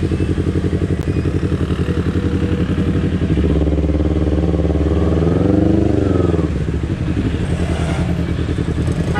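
Kawasaki Ninja 250 FI parallel-twin engine running at low speed in traffic. It revs up smoothly about midway and drops back to a lower steady run.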